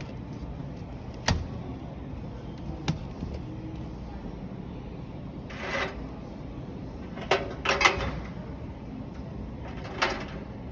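Display washing machines being handled: two sharp clicks, then several short knocking, scraping sounds of doors and detergent drawers being opened and shut, over a steady low hum.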